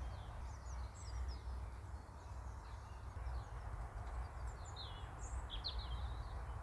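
Small birds chirping and twittering in short, scattered calls over a steady low outdoor rumble.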